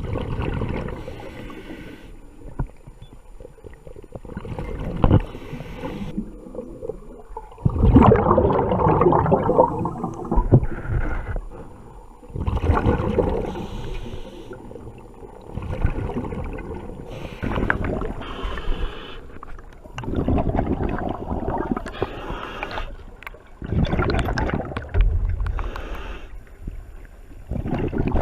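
A diver breathing through a diving regulator underwater, the exhaled bubbles gurgling out in bursts every three to four seconds.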